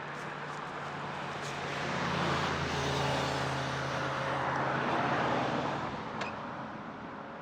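A motor vehicle engine running steadily, growing louder through the middle and fading again, with a single sharp click about six seconds in.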